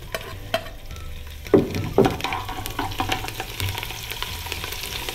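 Chopped green chillies going into hot oil with garlic slices and ajwain in an aluminium pot and sizzling as they are stirred. A steel spoon clanks against the metal a few times in the first two seconds, loudest about one and a half and two seconds in, and the sizzle then grows stronger.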